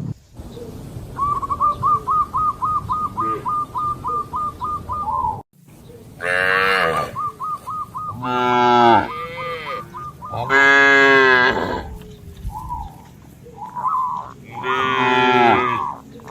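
Cattle mooing: four long moos, starting about six seconds in, after a run of rapid, high, repeated chirps of about four a second.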